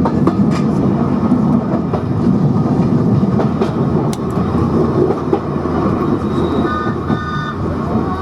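A train running along the track: a steady loud rumble with scattered clicks of wheels over the rail joints, and a brief high squeal of the wheels about two-thirds of the way through.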